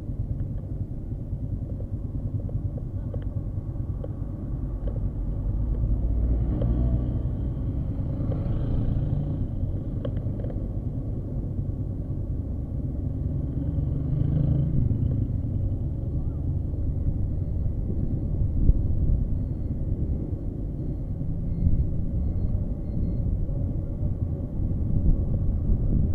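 A vehicle on the move: a steady low engine and road rumble with wind noise. The engine note swells a few seconds in and again near the middle.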